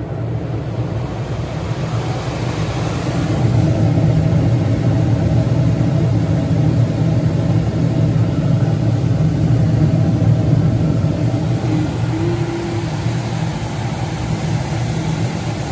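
Gas furnace running with its burners lit and the blower fan on: a steady low hum with rushing air that gets louder a few seconds in.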